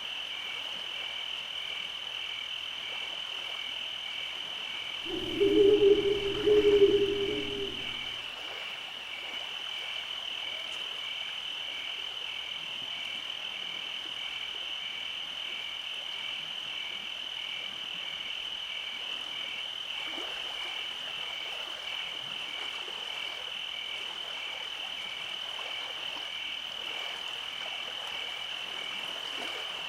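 A steady high chorus of night insects, one voice pulsing in an even rhythm, runs throughout. About five seconds in, a frog gives a low croaking call in two parts, the loudest sound here.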